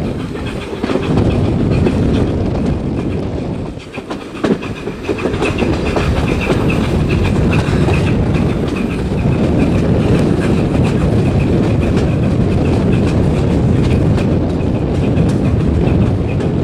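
Steam-hauled passenger train running, heard from an open carriage window: a steady rumble of coach wheels with the clickety-clack of the wheels over rail joints. About four seconds in, the sound dips briefly and is followed by a sharp knock.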